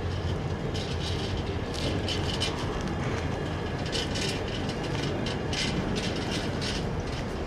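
Container flat wagons of an intermodal freight train rolling past: a steady rumble of wheels on the rails with irregular clanks and clicks from the wagons.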